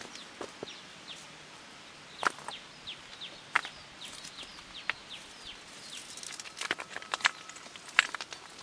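A bird calling in a run of short, high, falling chirps, mixed with scattered sharp snaps and knocks.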